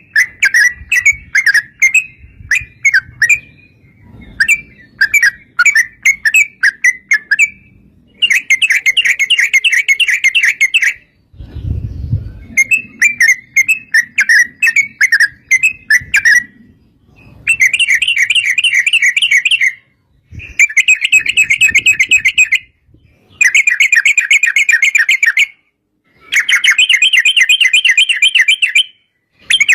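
Yellow-vented bulbuls (trucukan) singing in quick, bubbly chattering phrases. From about eight seconds in the phrases run together into long, dense trills of two to three seconds each, with short pauses between. There is a brief low bump about twelve seconds in.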